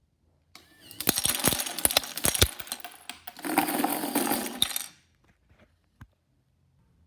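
Loose LEGO pieces clattering and clicking against each other: a run of sharp clicks, then a denser rattle that stops about five seconds in.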